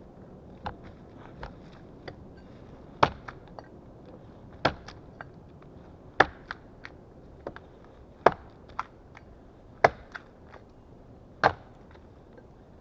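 Small axe chopping wood: six hard strikes about a second and a half apart, with lighter taps in between.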